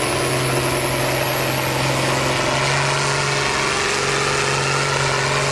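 Tractor engine running steadily: an even, unbroken drone with a faint high whine that rises slightly about two and a half seconds in.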